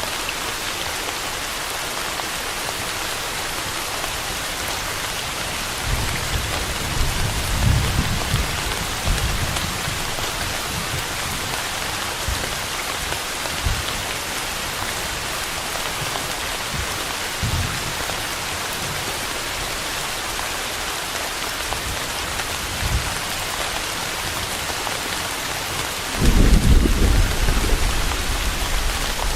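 Steady rain with thunder. Low rumbles roll in about six seconds in and again briefly later, and a louder rumble of thunder starts near the end.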